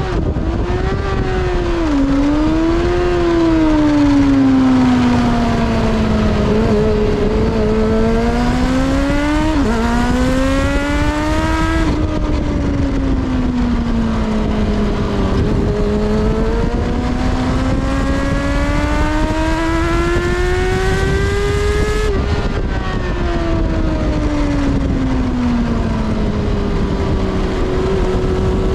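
Kawasaki ZXR400 inline-four engine heard on board, its revs rising and falling slowly as the bike is ridden, with sudden drops in pitch about ten seconds in and again about twenty-two seconds in, over a steady wind rush.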